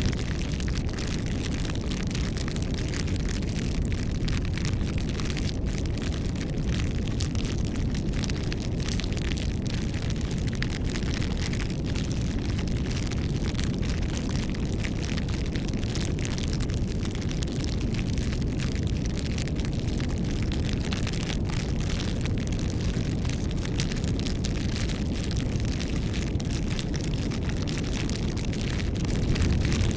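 Bonfire burning steadily: a low rumble of the flames with frequent small crackles and pops from the burning wood.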